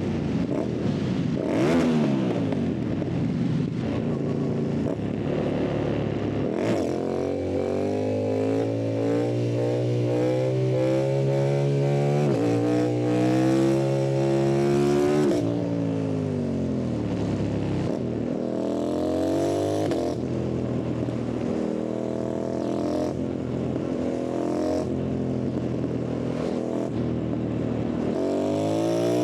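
2025 Yamaha MT-07's parallel-twin engine pulling hard through the gears: the pitch climbs, drops at each upshift and climbs again. Partway through it falls away as the bike slows, then it revs up through the gears once more near the end.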